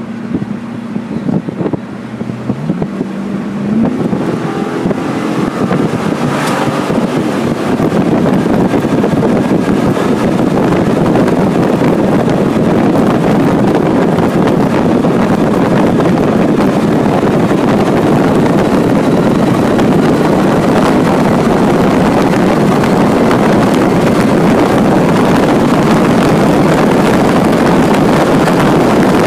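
2000 Pontiac Trans Am WS6's LS1 V8 at full throttle, heard from inside the cabin: the engine note rises over the first few seconds. It then becomes a loud, steady rush of engine, wind and road noise as the car climbs toward 130 mph.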